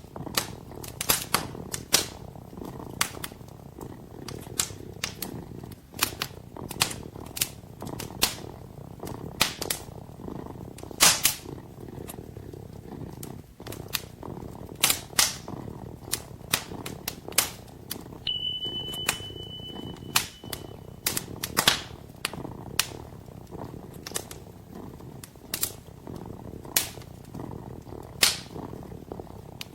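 Wood fire crackling, with irregular sharp pops one to three a second, over the steady low purring of a kitten.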